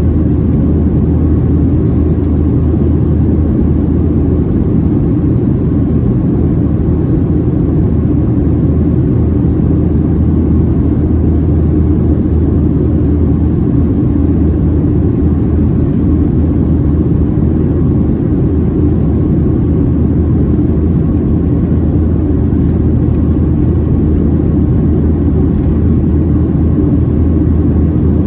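Steady low drone inside the cabin of a Boeing 737-700 in flight: its CFM56-7B turbofan engines and the air rushing past the fuselage, even and unchanging throughout.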